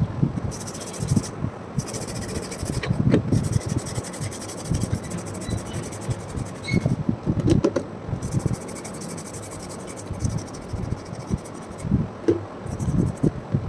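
Irregular rubbing and scraping handling noises with soft knocks, and a faint high hiss that comes and goes.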